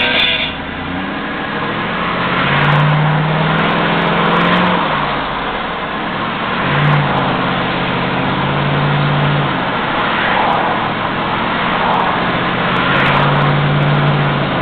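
GMC 2500HD dump truck's V8 engine pulling under way with road noise. The engine note swells three times as it accelerates.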